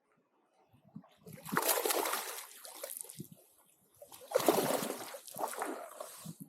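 Water splashing close by in two bursts, the first about a second in and the second about four seconds in, each lasting around two seconds.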